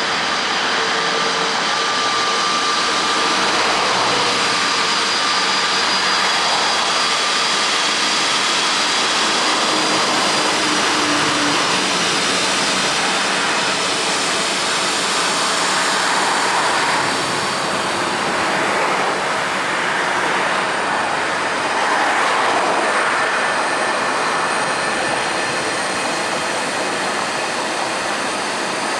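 Airbus A320neo turbofan engines running loud and steady, a rushing roar with a few thin whining tones over it.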